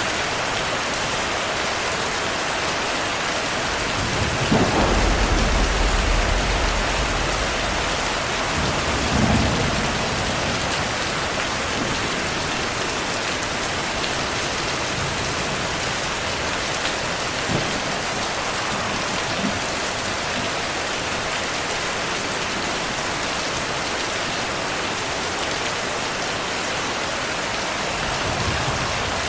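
Steady heavy rainfall hissing, with a deep thunder rumble rolling in about four seconds in and fading over several seconds, a shorter rumble around nine seconds, and a faint one near the end.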